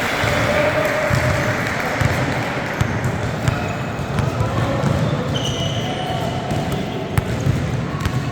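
Youth basketball game on an indoor court: the ball bouncing and scattered sharp knocks over a steady wash of crowd and player voices.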